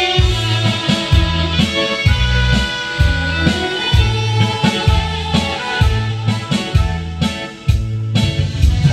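Karaoke backing track of a Korean ballad playing an instrumental break with no vocal: a bass line on a steady beat under sustained keyboard-like melody lines.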